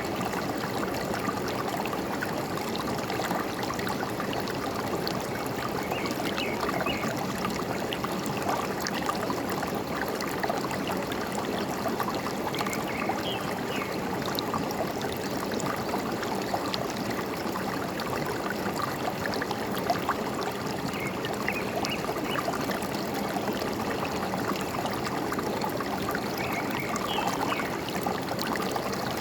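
Forest stream flowing steadily with a trickling, gurgling rush of water. Small bird chirps come faintly every few seconds over it.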